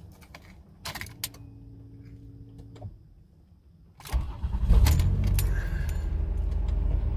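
A 1989 Buick Reatta's 3.8-litre V6 being started: a click of the ignition key and a steady hum for about two seconds, then about four seconds in the engine cranks, catches, flares briefly and settles to a steady idle.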